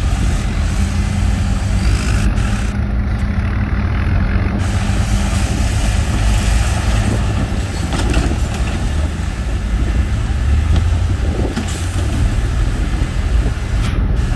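Heavy diesel earthmoving machinery running under load, a steady deep engine rumble.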